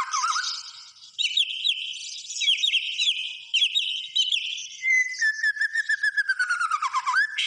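White-rumped shama singing: a string of varied whistled phrases made of quick down-slurred notes, then, about five seconds in, one long whistle that slides slowly down in pitch and flicks back up at the end, over a rapid stutter of short notes.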